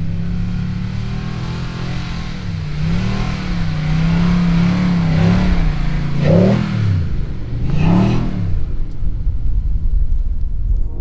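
Tow vehicle's engine running under load as it drives off with the caravan, its pitch rising and falling several times as the revs change, dipping and climbing twice in the second half.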